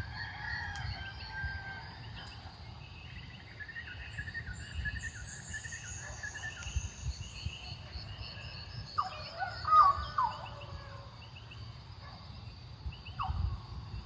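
Dawn chorus of several birds, butcherbirds among them, with repeated short notes, a quick regular trill and a high falling whistle about five seconds in. The loudest call, with sliding notes, comes just under ten seconds in.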